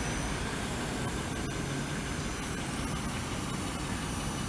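Car engine idling, a steady hum heard from inside the cabin.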